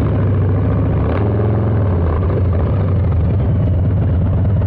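Harley-Davidson Low Rider S's Milwaukee-Eight 117 V-twin running through a Two Brothers 2-into-1 exhaust while the bike is ridden along at an easy throttle. The engine note shifts briefly about a second in.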